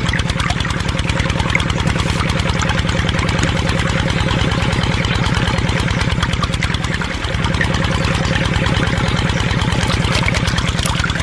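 An engine idling with a rapid, even chug, dipping slightly in level about seven seconds in.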